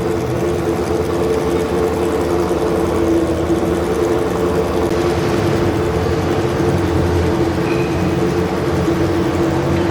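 Garden tractor engine running steadily at a constant speed.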